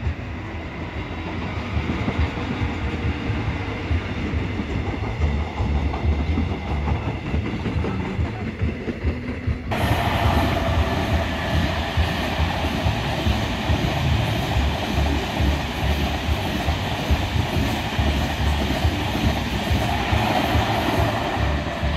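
Passenger trains passing on the line below: first a locomotive-hauled Mugunghwa-ho train of coaches rumbling by with wheels clacking over the rails. About ten seconds in, the sound changes abruptly and a second long passenger train runs past, with steady rumble and rail noise.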